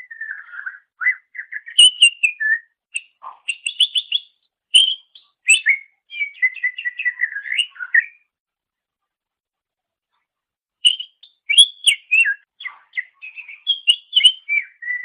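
Cucak ijo (green leafbird) singing a varied, rapid song of whistles and chirps, stopping for about three seconds in the middle before starting again.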